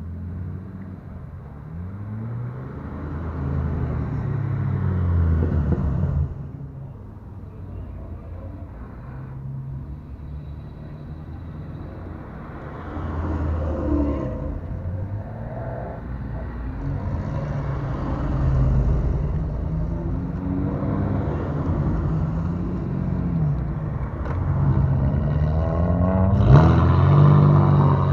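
Modified Japanese cars revving their engines as they drive out one after another, the engine note rising and falling again and again. The sound changes abruptly about six seconds in and again near the end.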